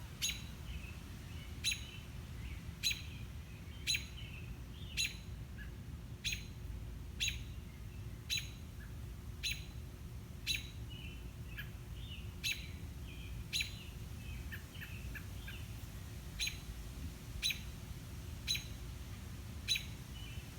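A bird repeating one short, sharp, high chirp about once a second, with softer chirps from other birds in between, over a steady low rumble.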